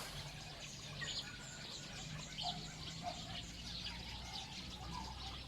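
Birds chirping: many short, scattered high chirps with a few lower calls, over a faint steady low hum.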